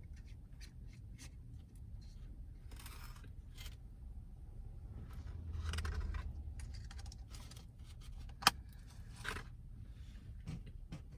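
Handling noises in a car cabin: scattered small clicks, rustling and scraping, with one sharp click about eight and a half seconds in.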